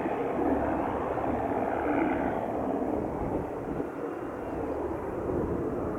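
Aircraft engine noise: a steady rush with no clear tone.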